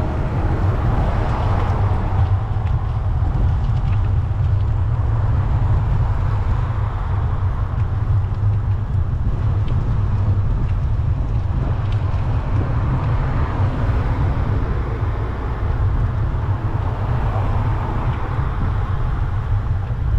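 Steady low rumble of wind on the microphone and road traffic during a bicycle ride on city streets, swelling and easing gently.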